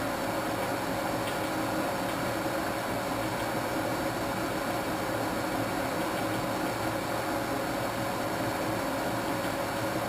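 Old washing machine running steadily through its cycle, an even mechanical whir with a faint steady hum.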